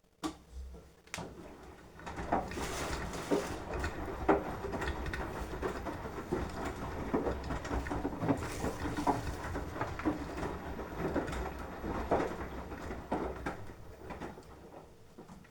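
Beko washing machine in a 30° wash, its drum turning one way for about twelve seconds with wet laundry tumbling and splashing, full of irregular soft knocks. It opens with a couple of clicks and fades out near the end as the drum stops.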